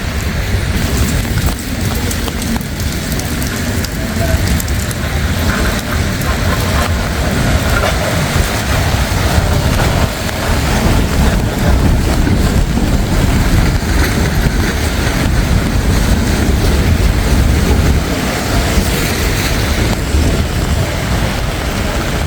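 Steady wash of city traffic on wet streets: a low rumble of vehicles with a hiss of tyres and water on top.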